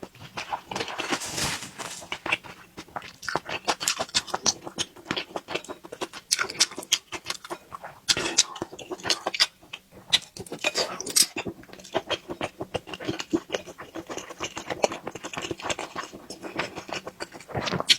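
Close-up eating sounds: a person chewing beef tendon and octopus rice, with a dense, irregular run of wet mouth smacks and clicks.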